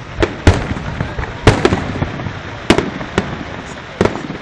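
Fireworks display bursting: about seven sharp bangs at uneven intervals, each with an echoing tail, over a background of crackle.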